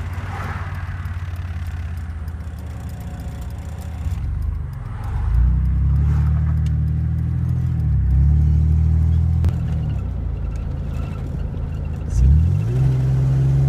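Chevy S10 Blazer's 4.3 L V6 engine running while driving, heard from inside the cab. Its note steps up and grows louder about five seconds in, eases back after about nine seconds, then climbs in pitch near the end as it pulls harder.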